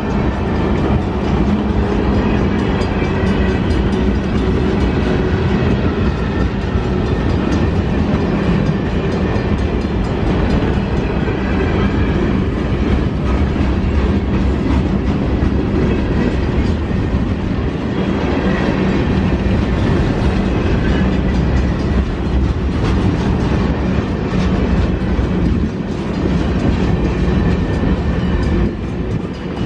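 Train rolling past, steel wheels clicking over the rail joints under a steady low hum.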